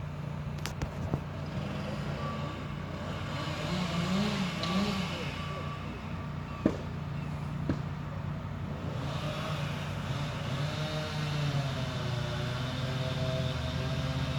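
A work truck's engine running steadily, with a few sharp clicks and knocks.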